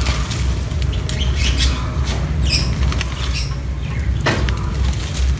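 Wind rumbling on the microphone, with rustling and scattered clicks, a short high chirp about two and a half seconds in and a sharp crack a little after four seconds.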